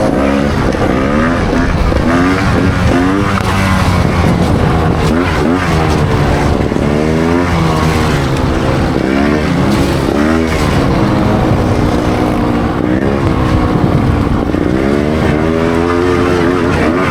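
Trials motorcycle engine revved in short repeated blips, its pitch rising and falling about once a second over a steady low running note.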